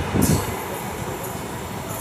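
Rumble of a passing express train dying away as its last coach moves off down the adjacent track, with a brief high hiss about a quarter second in.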